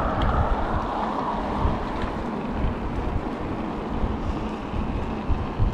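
Wind buffeting the microphone of a camera on a moving mountain bike: a steady rushing with irregular low gusts.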